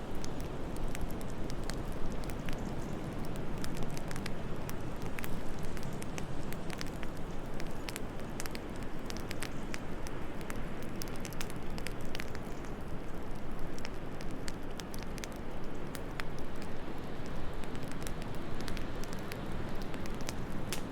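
Wood fire crackling, with many small sharp pops scattered irregularly over a steady low rush of wind.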